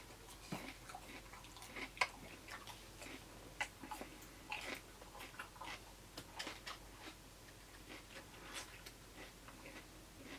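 Faint, irregular crunching and mouth clicks of someone chewing crunchy raw food such as apple, cucumber or green pepper, close to the microphone.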